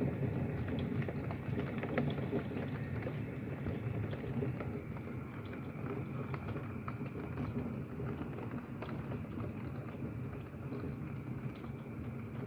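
Heavy rain falling steadily, with many small drop ticks over a dense low hiss, heard from indoors through a closed window.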